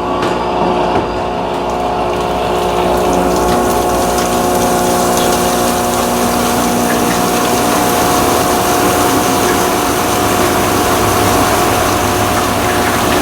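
Electrolux LF90 washing machine running through its cycle: a steady motor hum with several held tones under a noise of churning water that swells over the first couple of seconds.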